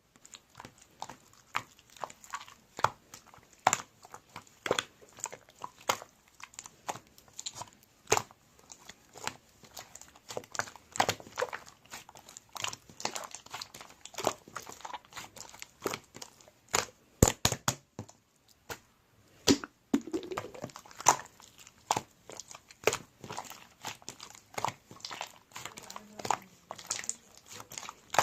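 A dense, irregular run of short crinkling and clicking sounds, several a second, from something being handled close to the microphone.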